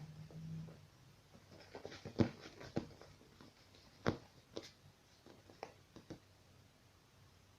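Scattered light taps and knocks of a kitten at play, about half a dozen over a few seconds, the loudest about four seconds in.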